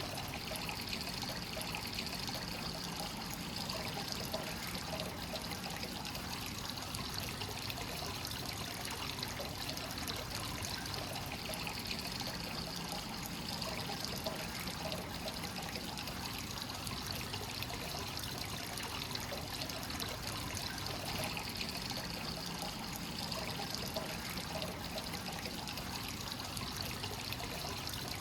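Free-flowing hot spring water pouring steadily into a bath, a continuous trickling splash.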